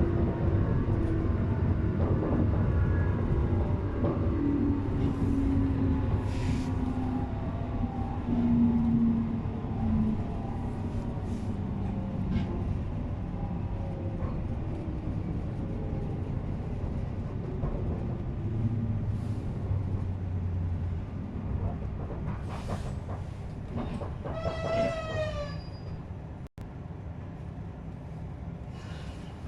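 JR East 719 series electric train, a set known for an unusual running noise, slowing to a stop: a steady rail rumble under a whine that falls in pitch as it loses speed, and a short squeal about twenty-five seconds in as the brakes bring it to a halt.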